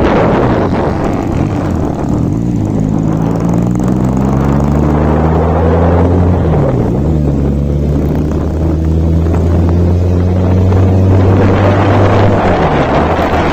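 Kawasaki KZ200 single-cylinder motorcycle engine pulling under way, its pitch climbing with speed. It dips and picks up again about six and a half seconds in, like a gear change, and drops again near the end. Wind buffets the microphone, most heavily at the start and end.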